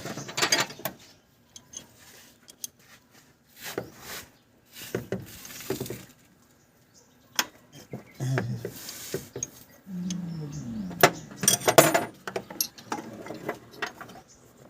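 Metal hand tools clinking and knocking against engine parts, a series of irregular sharp clicks and taps.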